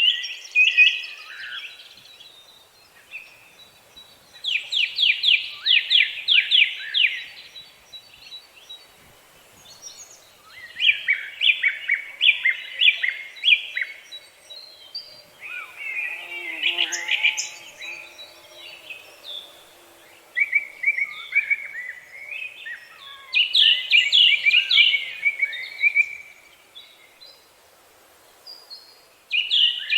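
Songbirds singing: phrases of quick, high, repeated chirps, each lasting two or three seconds, coming again every few seconds with short quiet gaps between them.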